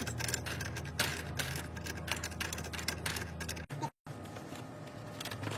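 Irregular sharp clicks and knocks of hand work on plumbing fittings, over a steady low hum; the sound cuts out for a moment about four seconds in.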